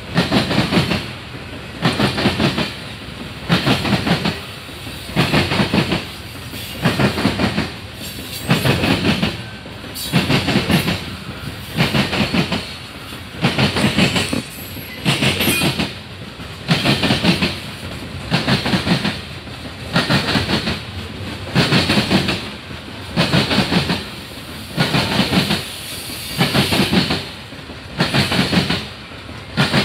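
Freight train of coal gondola cars rolling past, its wheels clicking over the rail joints in a steady clickety-clack, a burst of clatter about every second and a half as each pair of trucks goes by.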